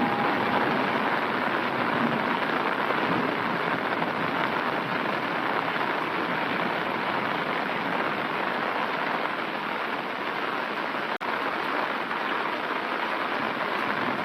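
Heavy rain falling steadily onto an umbrella held over the microphone, with a momentary dropout about eleven seconds in.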